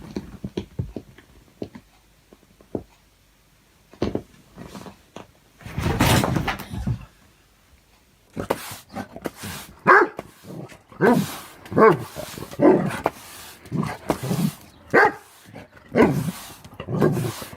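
A dog barking again and again, roughly once a second, starting about eight seconds in. Before that there are scattered knocks and a short rush of noise.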